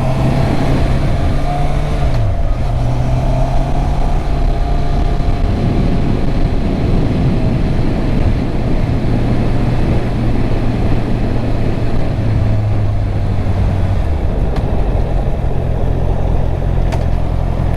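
Honda CB650R's stock-exhaust inline-four engine running under way, the revs falling sharply about two seconds in and otherwise holding fairly steady, with a small shift in pitch a little past the middle.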